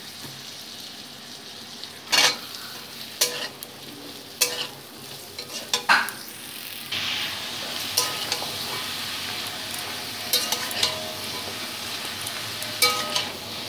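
Chopped vegetables frying in hot mustard oil in a steel kadai, sizzling steadily, while a metal spatula knocks and scrapes against the pan as they are turned. The sizzle grows louder about halfway through.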